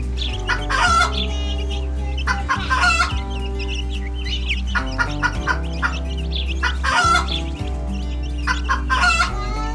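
Chickens clucking over steady background music with sustained bass notes. The calls come in short clusters about every two seconds.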